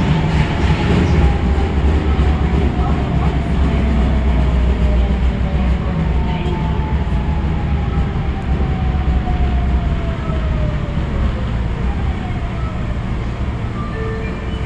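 Osaka Metro 22 series subway train running and slowing, its motor whine falling steadily in pitch over a low rumble of wheels on rail. The uploader finds the wheels badly flatted.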